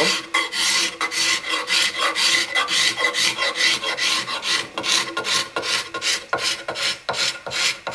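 A ruler's edge scraping old finish and surface grime off a wooden axe handle in quick, repeated strokes, several a second, taking off only the surface layer of the wood.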